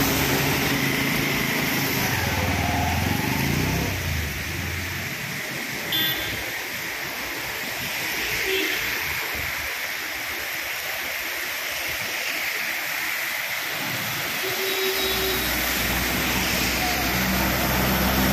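Heavy rain pouring steadily onto a flooded road. A motor vehicle's engine runs under the rain for the first few seconds and comes back about fifteen seconds in, as a vehicle with its headlights on draws near.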